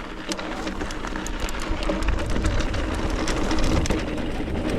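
Mountain bike riding over rough trail: tyre noise with many small rattles and clicks from the bike over bumps, and a low wind rumble on the microphone that grows from about two seconds in.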